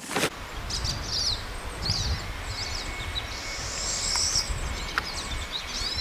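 Small songbird chirping: clusters of short, high, quickly sweeping chirps about once a second, over a low steady rumble.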